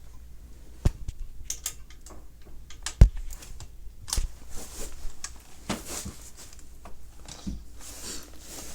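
Irregular handling clicks and knocks of hand work on carpet, with two sharper knocks about one and three seconds in and lighter scrapes and taps between them.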